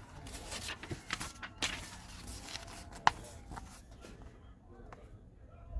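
Paper sheets being handled and shuffled, a rustling with small clicks, then one sharp tap about three seconds in before the handling quietens.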